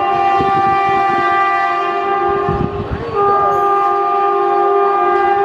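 Indian Railways locomotive air horn held in a long blast, breaking briefly about three seconds in and then sounding again, over the rumble of the passing train.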